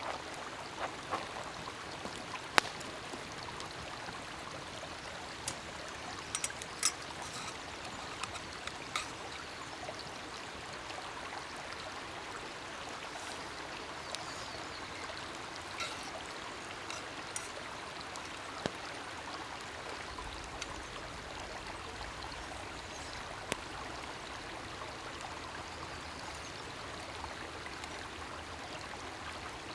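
Steady hiss of running water, with scattered sharp clicks and taps over it, the loudest a few seconds in.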